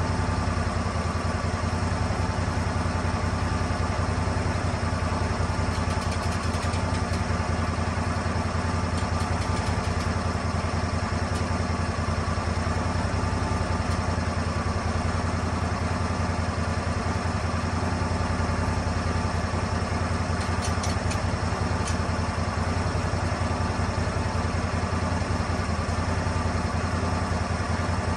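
Swing blade sawmill's petrol engine running steadily with a constant low hum, with a few faint light ticks.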